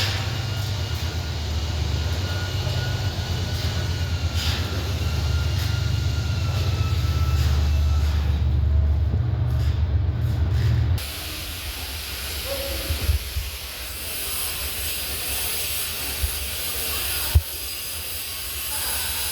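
MARTA rapid transit train running, with a heavy low rumble and a faint, slowly falling whine. About eleven seconds in, the rumble cuts off suddenly and a steady hiss takes over, with a few sharp clicks near the end.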